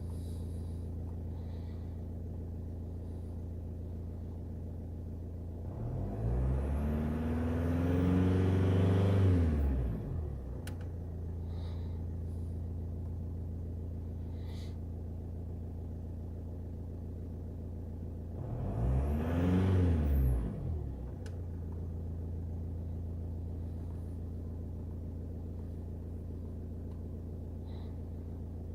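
Opel Y22DTR 2.2-litre four-cylinder turbodiesel idling steadily, revved up twice and let fall back to idle: a longer blip about six seconds in and a shorter one near the middle.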